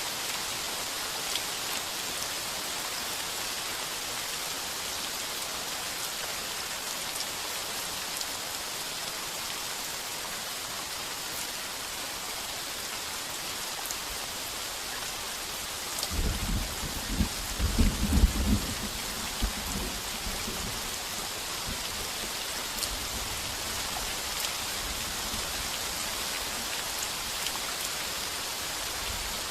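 Heavy rain falling steadily on a tin roof. About halfway through a roll of thunder rumbles in, loudest a couple of seconds later, then trails off under the rain.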